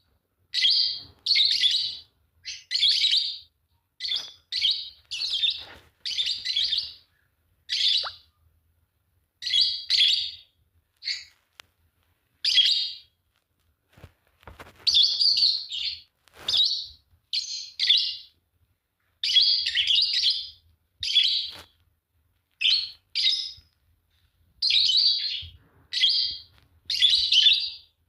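Fischer's lovebirds chirping: short, shrill bursts of chatter, each under a second, repeated every second or so with brief quiet gaps between.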